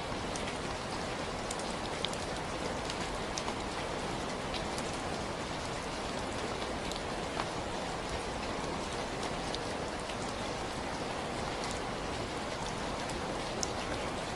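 Steady rain falling, an even hiss with scattered distinct drop ticks.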